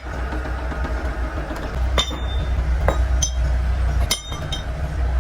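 Metal parts clinking and striking sharply four or five times, with a short ring after each, over a steady low machine hum.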